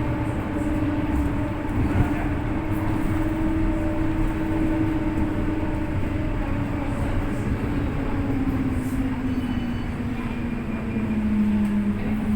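FGV series 4200 light-rail tram running: rumble of wheels on the rails with a steady electric traction-motor whine that falls in pitch during the second half as the tram slows.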